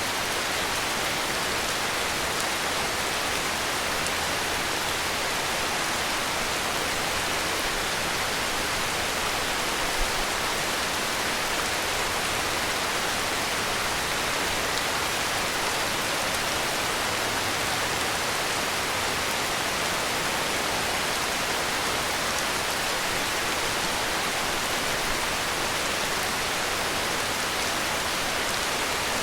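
Heavy rain falling steadily, an even hiss with no let-up, and one brief soft thump about ten seconds in.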